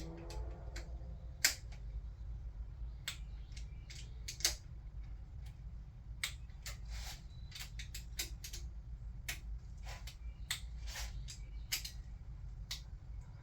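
Click-type torque wrench ratcheting and clicking on the cam bearing cap bolts of a Toyota 2JZ cylinder head as each bolt is brought to 15 foot-pounds: sharp, separate clicks at uneven intervals over a low steady hum.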